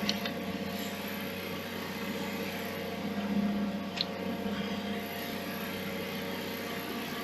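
A steady machine-like hum or drone, with two brief sharp high sounds: one at the very start and one about four seconds in.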